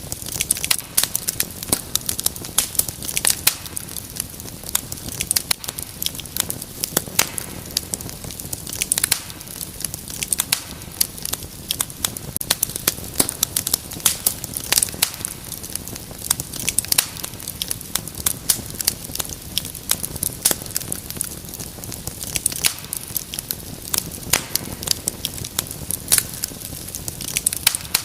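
Wood fire crackling: a steady soft hiss with many irregular sharp pops and snaps.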